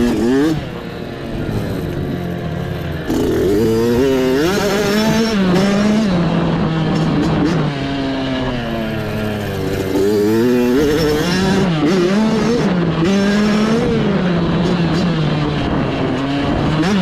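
Mini dirt bike engine revving up and down over and over as the throttle is worked on and off while racing through off-road terrain. The pitch climbs and drops every second or two, with a brief dip about half a second in.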